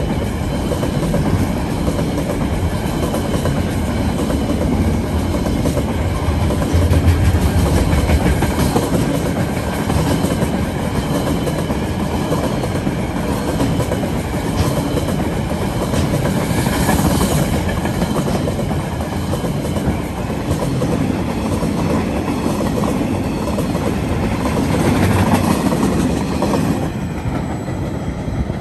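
KiwiRail freight train's wagons rolling past at speed, steel wheels clacking over the rails in a steady noise. It fades near the end as the last wagons draw away.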